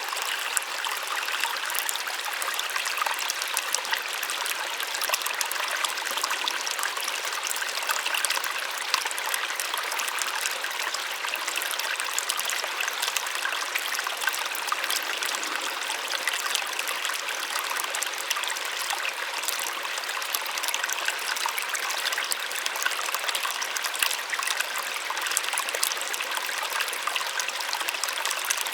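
Small waterfall splashing steadily, a continuous gentle rushing with fine crackling splashes and little low rumble.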